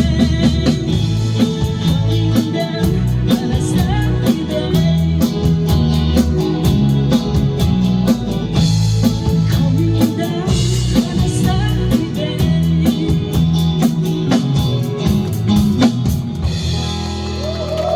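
Live band playing a rock song with a drum kit, bass and guitar at a steady beat, thinning out near the end.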